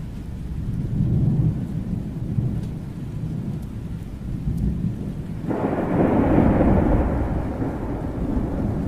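Thunderstorm: low rolling thunder, then a sudden louder thunderclap about five and a half seconds in that rolls on and slowly fades, over light rain.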